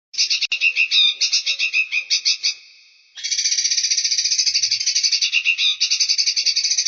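A songbird sings a rapid, high-pitched chattering trill of about ten notes a second, in two bouts. The first lasts about two and a half seconds, and the second, longer bout starts about three seconds in.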